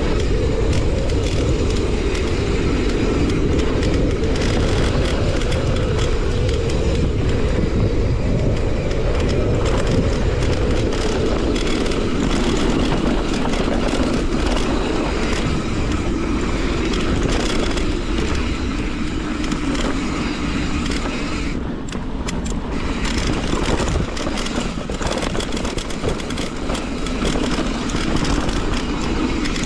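Strong wind buffeting the camera microphone in a blizzard, a steady heavy rushing with no break.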